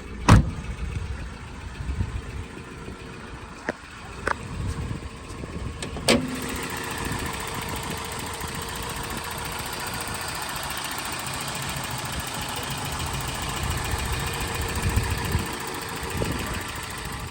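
A few sharp clicks and knocks, then from about six seconds in the Toyota 22RE four-cylinder engine of a 1993 pickup runs steadily at idle.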